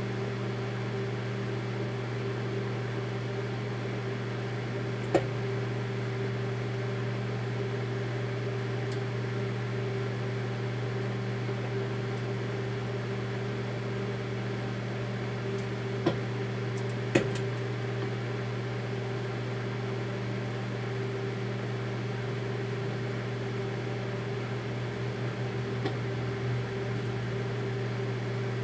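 Daewoo microwave oven running with a steady hum and fan noise while it heats Play-Doh. A few short sharp clicks cut through: one about five seconds in and two in quick succession around a third of the way from the end.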